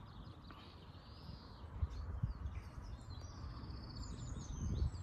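Faint birdsong, a few short chirping calls, over a low outdoor rumble with a few soft thumps.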